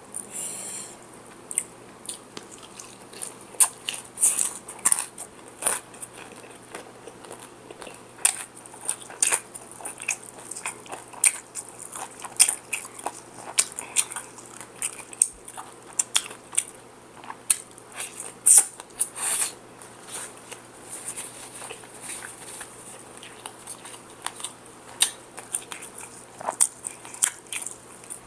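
Close-up crunching and chewing of crispy fried chicken: irregular sharp crunches of the breaded crust between bites and chews.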